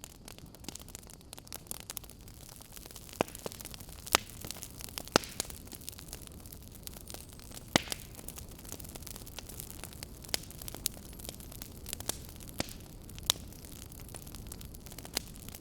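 Wood fire crackling in a fireplace: irregular sharp pops and snaps, a few louder ones around four, five and eight seconds in, over a steady hiss.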